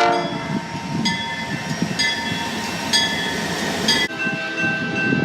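A train running past with steady rumbling wheel noise, just after a horn blast. A bell rings about once a second, and a steady high tone sets in about four seconds in.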